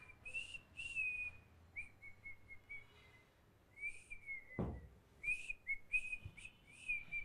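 Faint, irregular short high chirps, whistle-like and often dipping in pitch, as from a small bird. There is one dull thump about four and a half seconds in.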